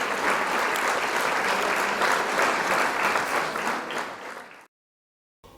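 Audience applauding steadily, the clapping fading away about four and a half seconds in, followed by a brief dead silence.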